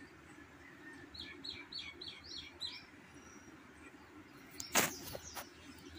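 A small bird singing a quick run of about seven repeated high chirps, about a second in. Near the end there is a single sharp click.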